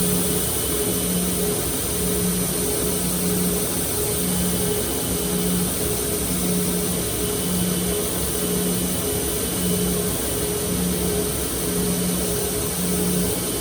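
Motor-driven grinder running steadily, with a low hum that pulses about once a second, as a knife blade is thinned or reground.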